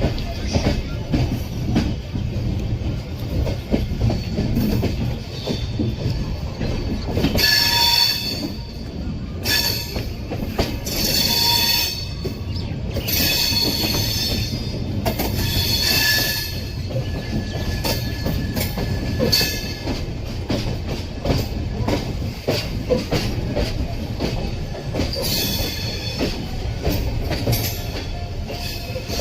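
Passenger train running on the rails, a steady rumble with rapid clatter of the wheels over the track. Bursts of high-pitched wheel squeal come and go several times.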